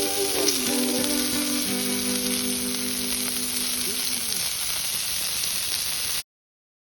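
Pork belly sizzling on a hot marble slab over a wood fire: a steady frying hiss, with held musical notes underneath. It cuts off suddenly about six seconds in.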